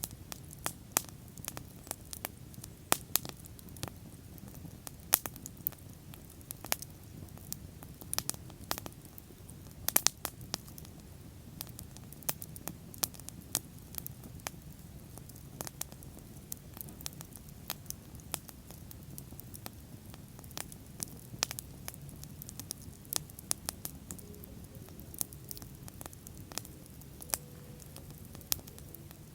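Wood bonfire burning and crackling: irregular sharp pops and snaps over a low, steady rumble of flame.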